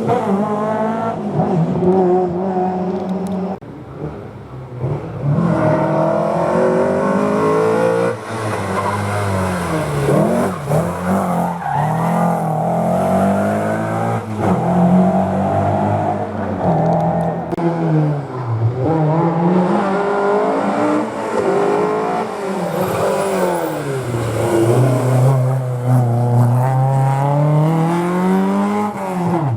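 Historic rally cars at full stage pace through a hairpin: the engine note repeatedly drops as they brake and downshift, then climbs again as they accelerate away through the gears.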